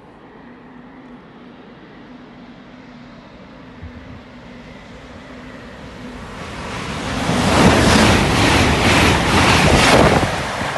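GWR Class 800 Hitachi IET train approaching and running through the station at speed. Its wheel and air rush rises steadily and is loudest over the last few seconds as it passes close by, with wind buffeting the microphone.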